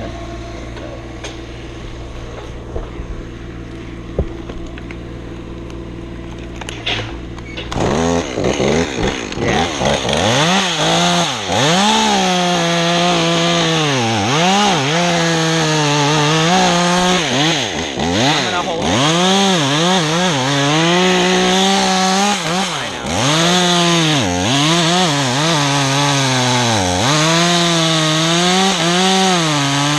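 Two-stroke chainsaw running low and steady, then throttled up about eight seconds in and cutting through pine, its engine note dipping and recovering again and again as the bar bogs in the wood.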